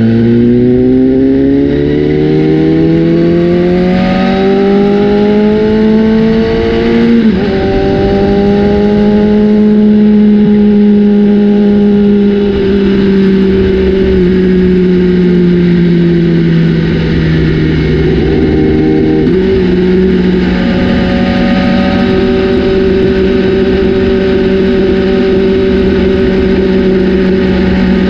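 BMW S1000RR inline-four engine through an aftermarket Austin Racing exhaust, its revs climbing steadily for about seven seconds, dipping briefly, then slowly falling. About 19 seconds in the pitch jumps up and holds steady.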